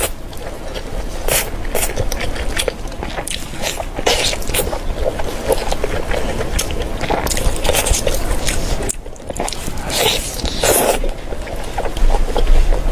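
Close-miked eating: biting and chewing with many short, crisp clicks and wet smacks, dipping briefly about nine seconds in.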